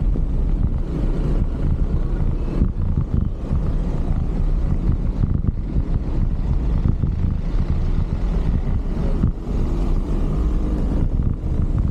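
Steady rumble of wind buffeting the microphone and road traffic noise, heard from a bicycle on the move along city streets. Late on, the low hum of a passing vehicle's engine rises above it.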